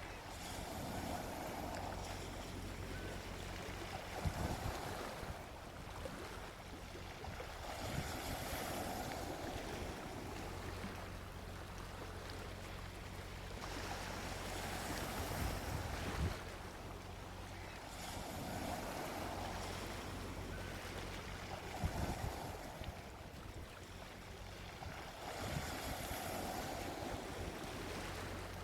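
Gentle sea waves washing onto a beach, each swell rising and falling away every few seconds with a soft low thud as it breaks.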